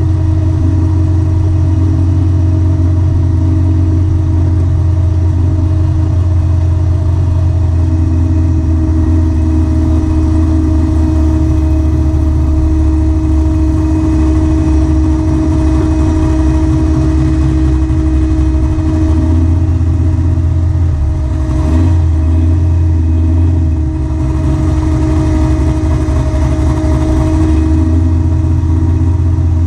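Car engine running steadily at idle, heard from beneath the car close to its dual exhaust, with a deep, loud note and a brief wobble about two-thirds of the way through.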